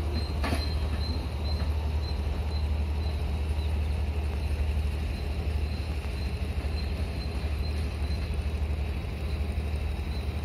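Train running through the station: a steady low rumble with no change in level, and a faint, evenly repeating high tick over it.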